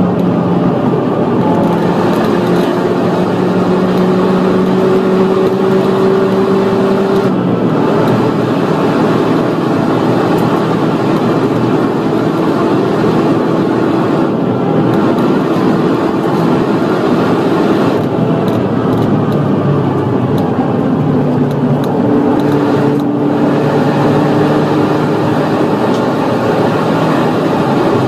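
Opel Astra H OPC's turbocharged four-cylinder engine pulling hard at high speed and full throttle, with wind and tyre noise underneath. The engine pitch drops about seven seconds in as it shifts up a gear.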